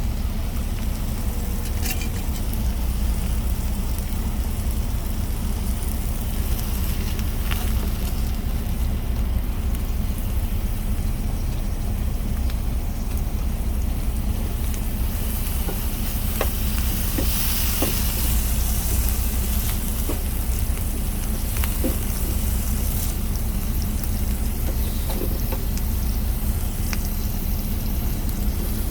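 Food sizzling as it is stir-fried in a pan, the sizzle swelling louder for several seconds in the middle, with a few short clicks of a utensil against the pan. A steady low hum runs underneath.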